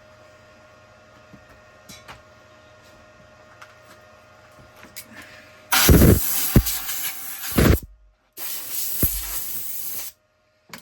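Two loud hissing blasts of spray, each about two seconds long, starting about six seconds in after a stretch of faint ticking and low hum.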